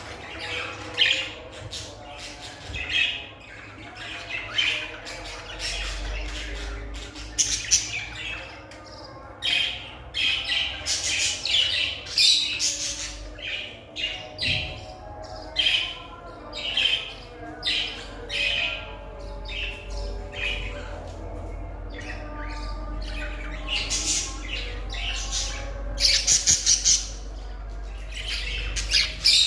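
Budgerigar chattering with frequent short, sharp squawks and chirps, and a quick run of repeated calls near the end.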